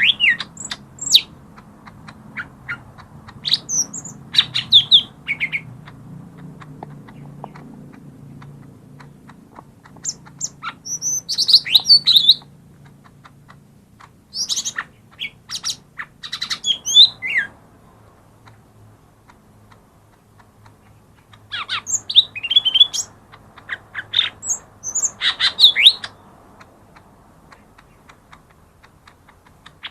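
Cucak ijo mini (leafbird) singing: bouts of quick chirps and loud whistled phrases, five bursts with pauses of a few seconds between them. The song is a lure call meant to provoke leafbirds that are slow to sing. A faint low hum sits underneath.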